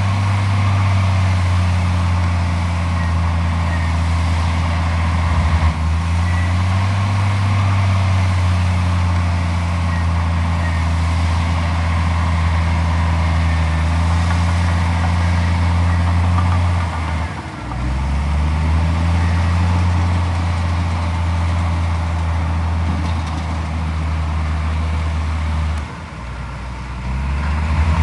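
Heavy diesel engine of earthmoving machinery running steadily under load. About two-thirds of the way through, its note drops sharply and climbs back. Near the end it eases off briefly, then picks up again.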